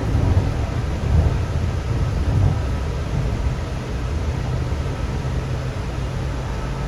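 Sound Transit Series 1 light rail car running along the track, heard from inside the car: a steady low rumble of wheels and track with a low hum under it.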